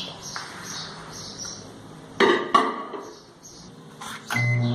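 Two sharp knocks of the dish and the microwave oven being loaded and shut, about two seconds in. Near the end the microwave oven starts running with a steady low hum.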